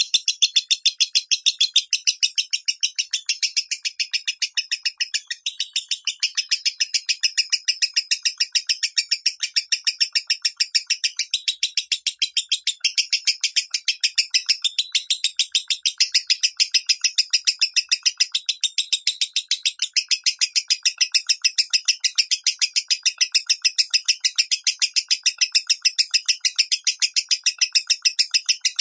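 Lovebird chattering in a fast, unbroken run of short, shrill chirps, about four a second. This is the song type that lovebird keepers call a 'minor' voice.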